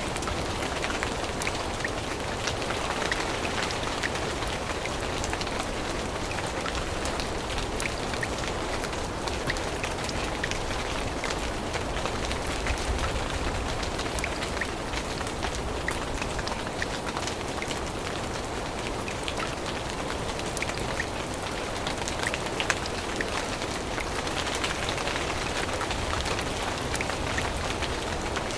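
Steady rain falling in a forest, an even patter with many single drops ticking on leaves.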